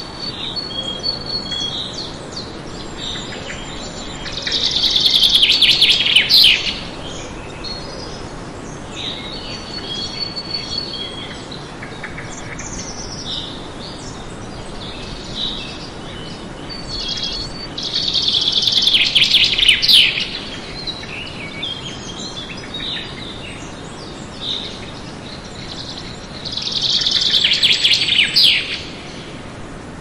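Songbirds singing and chirping over a steady background hiss. A loud song phrase of about two seconds comes three times, several seconds apart, with short chirps in between.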